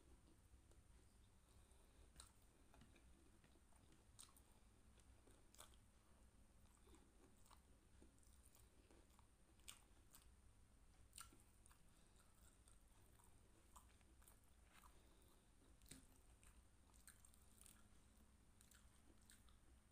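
Faint chewing of battered fried tempeh (tempe mendoan) and rice, with scattered soft mouth clicks every second or two.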